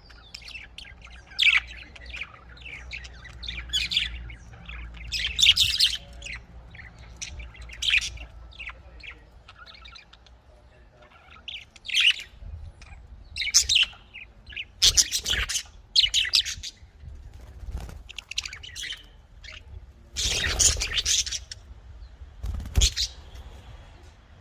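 Budgerigars chirping and chattering: a rapid, irregular stream of short high calls, with louder squawky bursts now and then, the longest about twenty seconds in. A faint low hum lies underneath.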